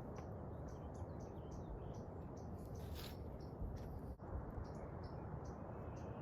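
Outdoor ambience: a steady rushing noise with short, high chirps repeating about twice a second, and a brief hiss about three seconds in.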